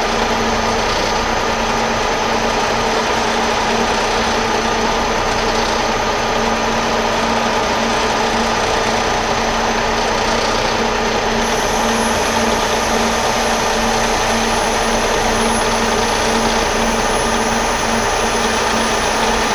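Metal lathe running steadily while taking a 30-thou cut on a metal bushing, the motor hum under the noise of the cutting tool. A thin, high whine joins about halfway through.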